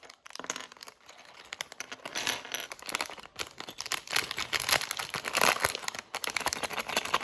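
Plastic packaging bag crinkling as it is handled and opened, with many small crackles and clicks.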